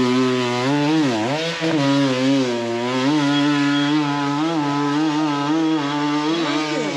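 Dirt bike engine revving hard on a climb, its pitch wavering up and down as the throttle is worked, with a quick drop and rise in revs about a second in.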